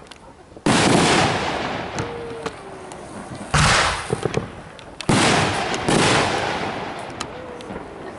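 Aerial fireworks going off: four loud booms, each trailing off in a long rolling echo, with a few small crackling pops between them.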